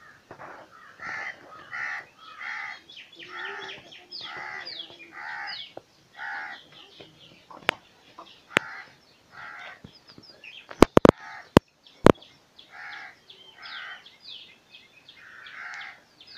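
Birds calling over and over in short, harsh calls, about one every half to one second. Several sharp clicks come in the middle.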